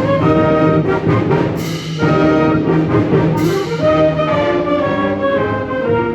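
Concert wind band playing a sustained, brass-led passage of chords, with two bright crashes about one and a half and three and a half seconds in.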